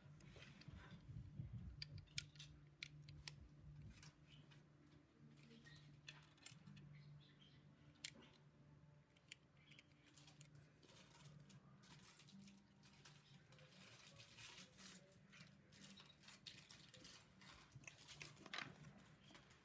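Faint scattered clicks and rustles of small plastic LEGO pieces being handled and pressed together, over a low steady hum.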